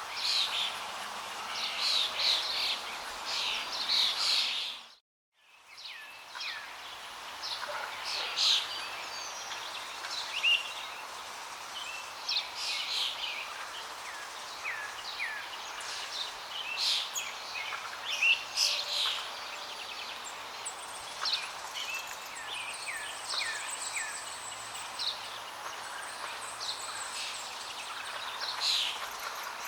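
Many small birds chirping and calling over a steady rush of flowing water. Everything dips out to near silence for about a second around five seconds in, then comes back.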